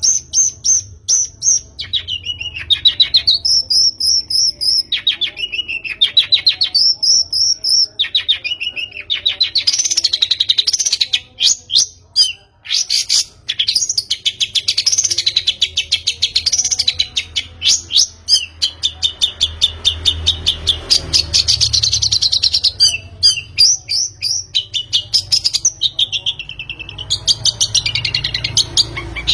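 Long-tailed shrike (pentet) singing a fast, busy song of rapidly repeated chirps and rising-and-falling trilled phrases, used as a lure call to set a caged shrike singing.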